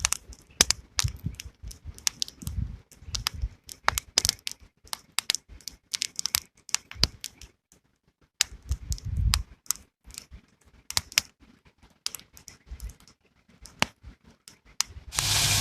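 Wood fire crackling and popping: a campfire of split firewood throwing out sharp, irregular snaps, with a few low rumbles between. Just before the end it cuts to a loud steady hiss.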